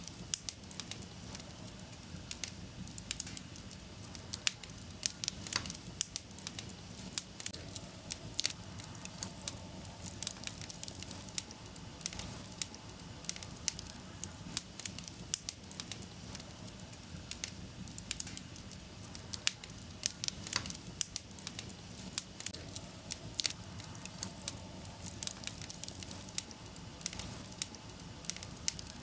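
Wood fire burning in a fireplace with a steady low rumble, crackling and popping in quick irregular snaps.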